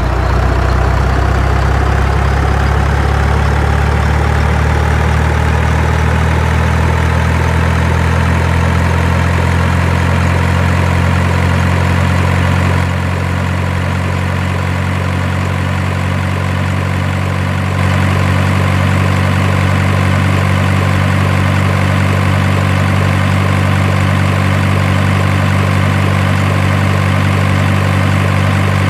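Steady idling truck-engine sound, low and even throughout, dipping slightly in level about 13 s in and coming back up about 18 s in.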